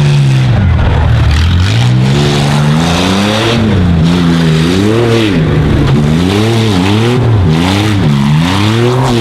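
Chevy S10 Blazer tough truck's engine revving under hard throttle. Its pitch climbs and drops again and again, with several quick rises and falls in a row in the second half as the throttle is worked on and off.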